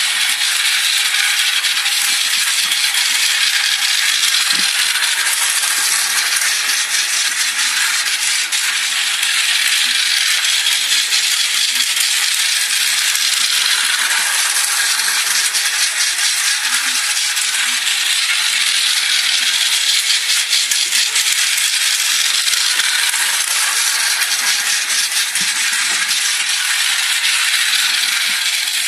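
Steady rattling and clattering of a moving train, with many fine rapid ticks over a continuous hiss.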